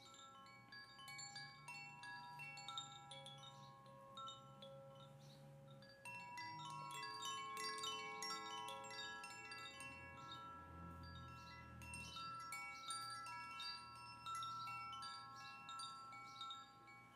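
Wind chimes ringing faintly: many metal tones at different pitches, struck over and over and overlapping as they fade.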